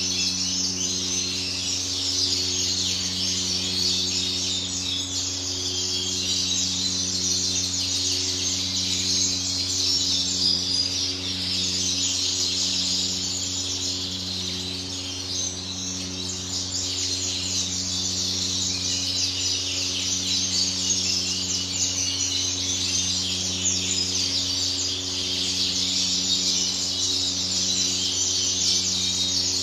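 Many canaries chirping and singing together without a break, over a steady low electrical hum whose upper part keeps cutting in and out.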